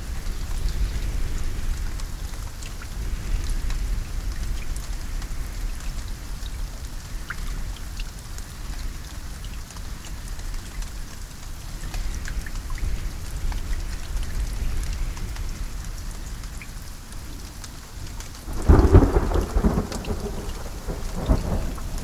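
Steady rain with a low rumble underneath, then a loud crack of thunder near the end that rolls on in a series of crackles.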